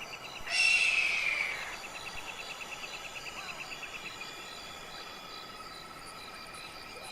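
Wild African night soundscape: insects trill in rapid even pulses, stopping about four seconds in, over steady high-pitched chirring. About half a second in, a loud animal call rings out for about a second, its pitch falling slightly.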